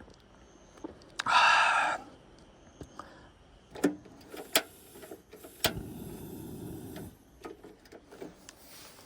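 Scattered clicks and knocks of objects being handled, with a short loud rasp about a second and a half in and a duller rustling stretch in the middle.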